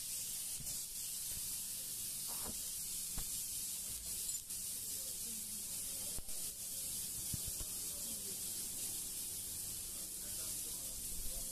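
Chopped onions, tomato and curry leaves frying in oil on a flat iron griddle: a steady high sizzle, with a few faint knocks of a metal spatula.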